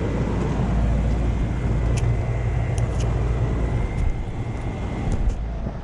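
Central air conditioner condensing units running: a steady low hum of compressors and fans, with a faint steady high-pitched whine over it, the level easing off near the end.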